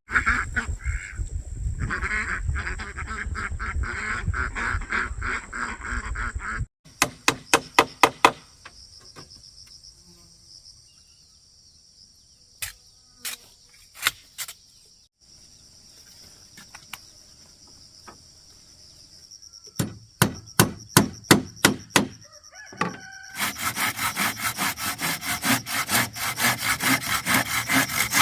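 Farm fowl calling for several seconds, then quick runs of sharp strokes on wood, and near the end fast, steady hand-sawing of wood.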